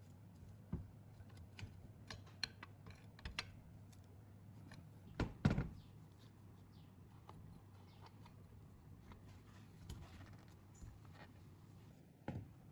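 Small engine parts and hand tools being handled on a workbench: scattered light clicks and knocks, with a louder double knock about five and a half seconds in and another near the end.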